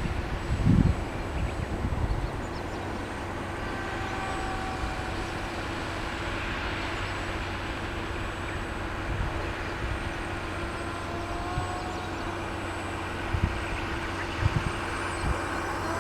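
Small motor running steadily with a constant hum, likely spinning the rotary plates of a Magnus-effect model aircraft, with a few low thuds of wind on the microphone.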